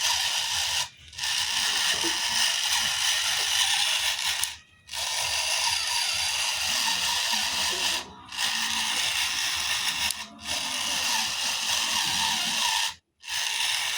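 Electric motor and plastic gearbox of a radio-controlled toy tractor running with a steady grinding whir, cutting out briefly about five times as it is stopped and started.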